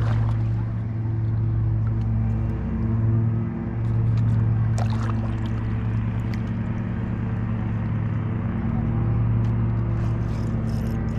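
A boat motor running steadily with a low hum, with a few light clicks and taps over it.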